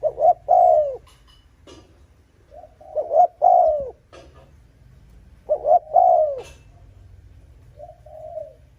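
Spotted dove cooing: three loud phrases of arched coo notes about three seconds apart, then a softer coo near the end.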